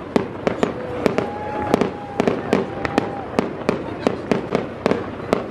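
Fireworks display: aerial shells bursting overhead in a rapid, uneven string of sharp bangs and crackles, about three a second.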